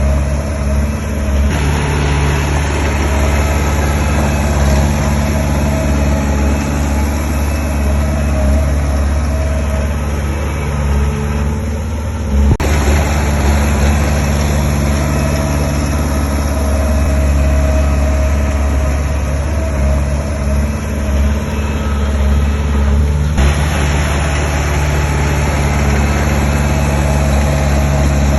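Diesel engine of heavy earthmoving machinery running steadily with a deep hum. The sound shifts abruptly about a third and two-thirds of the way through.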